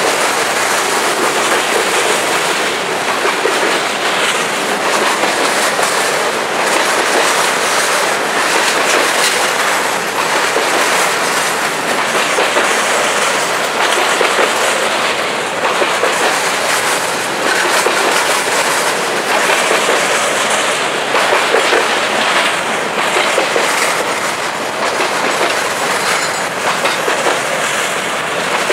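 Covered grain hopper cars of a Canadian Pacific freight train rolling past at close range: a steady, loud rumble of steel wheels on rail with repeated clicking as the wheels cross rail joints.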